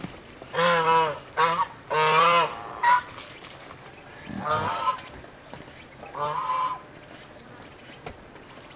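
An animal calling: a run of short, wavering pitched cries, four in quick succession, then two more a few seconds apart.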